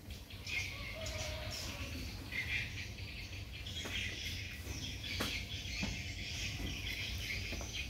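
Outdoor ambience with birds chirping, scattered short high chirps and a few faint clicks.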